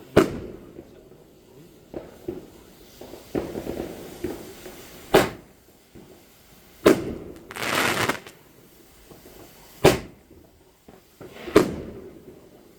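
Fireworks going off: about five sharp bangs at irregular intervals, with a short stretch of hissing crackle about two thirds of the way through.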